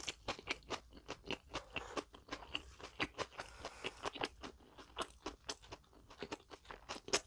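Close chewing and crunching of a fried bread roll filled with sausage and salad: a dense run of short, crisp crunches, several a second.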